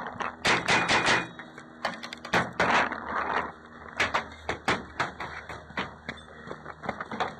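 Paintball markers firing: irregular sharp shots, some in quick strings of three or four and others spaced out, scattered throughout.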